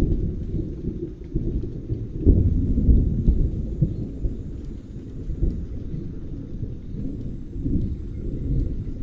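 Rolling thunder with rain: a continuous low rumble that swells about two seconds in and again near the end, over a faint patter.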